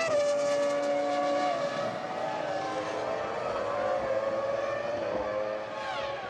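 Formula One cars' V10 engines running at high revs, several engine notes overlapping and slowly shifting in pitch, with one sharp falling sweep near the end as a car passes or lifts off.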